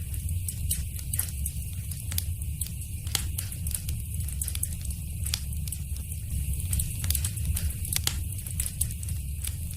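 Wood fire in a fireplace crackling, with many quick, irregular sharp pops and snaps over a steady low rumble of the burning.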